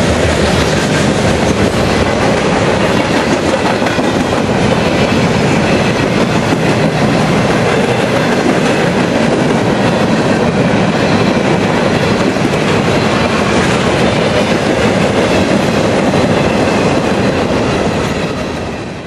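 Mixed freight train's cars rolling past on the nearest track: steady, loud noise of steel wheels on the rails, fading out near the end.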